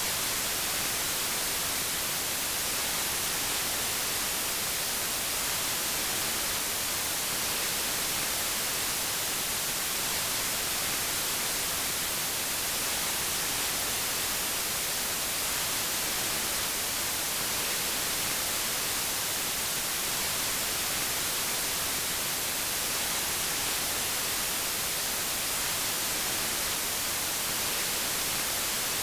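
Steady white noise: an even, unbroken hiss, brightest in the high end, with no change throughout.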